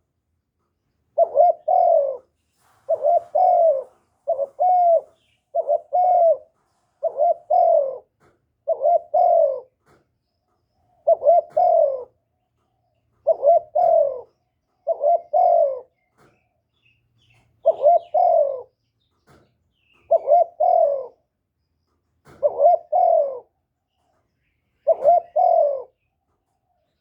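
Caged decoy spotted dove cooing in short phrases of two or three notes, repeated every one and a half to two seconds with a few longer pauses.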